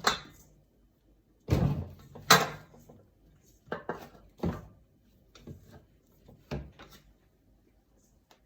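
Bread dough and a mixing bowl being handled on a kitchen counter: a string of irregular thumps and knocks, the loudest about two and a half seconds in.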